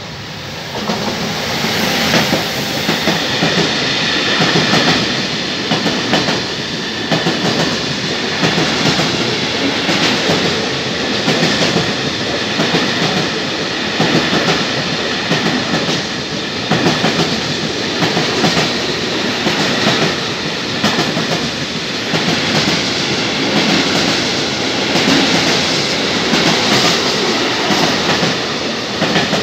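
Freight train running slowly through close by: an E484 electric locomotive passes, then a long string of container and tank-container flat wagons, their wheels clacking steadily over the rail joints. The sound swells about a second in as the locomotive draws level.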